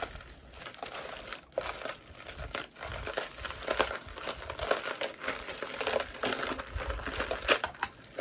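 Costume jewelry being handled: metal chains, clasps and beads clinking together with a crinkling rustle, many small clicks running on without a break.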